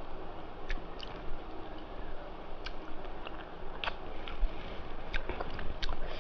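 Close-up eating sounds: a person chewing and smacking on a mouthful of rice and mutton curry, with scattered short wet clicks.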